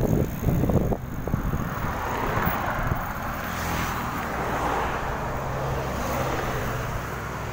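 Road noise while riding a bicycle: a steady rush of wind and traffic, with a motor vehicle's engine hum in the middle part and wind buffeting the microphone in the first second.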